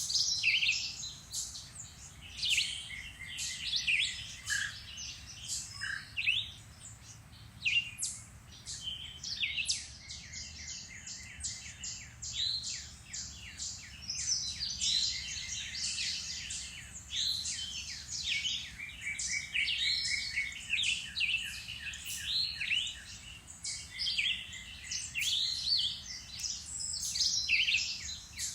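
Several songbirds singing and calling at once in spring woodland, a dense, overlapping chorus of chirps and rapid trills.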